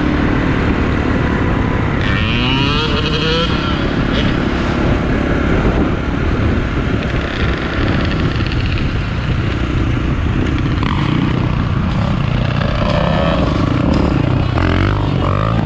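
Dirt bike engine running and revving, its pitch rising and falling a few times.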